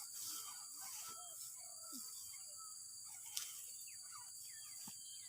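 Outdoor ambience of insects droning steadily at a high pitch, with many short scattered chirps and one sharp click a little past three seconds in.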